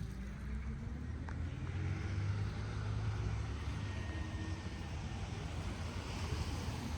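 Low rumble of a car driving past on a city street, swelling slightly in the middle and easing off again.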